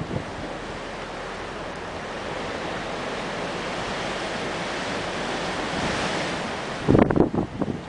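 Strong blizzard wind rushing steadily and swelling in a gust about six seconds in. Near the end, heavy gusts buffet the microphone with low rumbling blasts.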